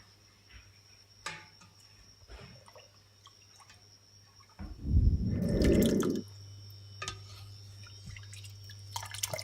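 Soft drips, liquid sounds and light clicks from soured milk curdling in a saucepan. About five seconds in comes a loud low rumble lasting about a second and a half, after which a low steady hum continues.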